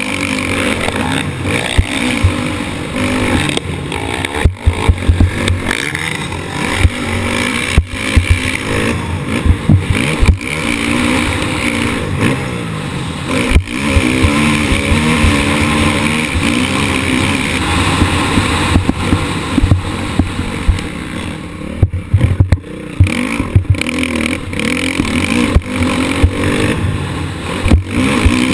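Motocross bike's engine revving hard and falling back over and over as it is ridden round the track, with knocks and clatter from the bike and wind noise on the camera mic.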